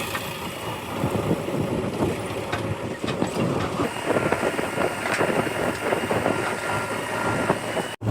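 Diesel engine of a backhoe loader running steadily, with a few light knocks over it.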